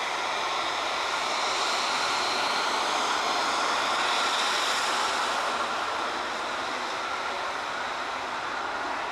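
Embraer Phenom 300's twin turbofan jet engines at takeoff power, a steady rushing roar with a high whine. It swells to its loudest around four seconds in, then its hiss fades as the jet moves away.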